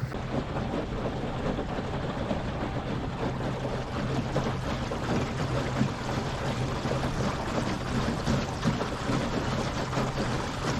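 Water rushing and splashing along the hull of a small boat underway, with a steady low hum from its Torqeedo 1103 electric outboard.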